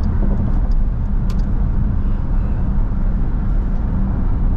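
Steady low drone of a Jeep Grand Cherokee SRT's V8 and tyres on the wet road, heard from inside the cabin while cruising, with one light click a little over a second in.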